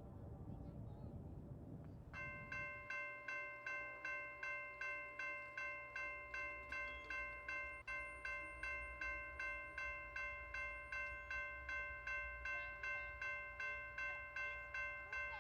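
Railroad grade crossing bell that starts ringing about two seconds in, striking evenly about twice a second: the crossing warning activated for an approaching train. Before it, a low rumble.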